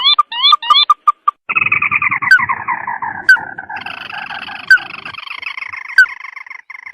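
Lure recording of the calls of the 'sintar mata merah' bird. A few short evenly spaced notes with rising whistles give way to a long falling chattering rattle and then a second rattling series, with four sharp loud notes over the top.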